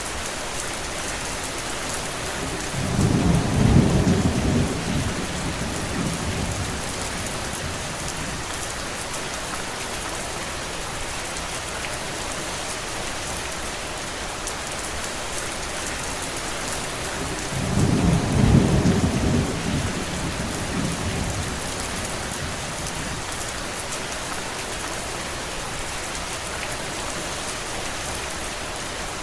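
Steady rain with an even hiss, broken twice by low rumbles of thunder that swell and fade over a few seconds: once a few seconds in and again a little past the middle.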